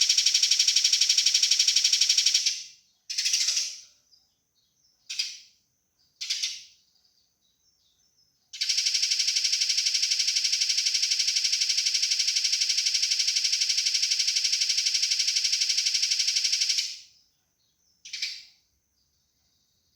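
Eurasian tree sparrows giving their fighting call: a long, dense, very fast rattling trill that stops about two and a half seconds in, three short harsh chirps, then a second long trill of about eight seconds, and one more short chirp near the end.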